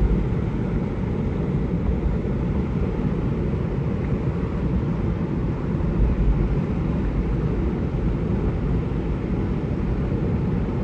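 Steady rushing of creek water, heaviest and rumbling in the low range, with no distinct splashes or knocks.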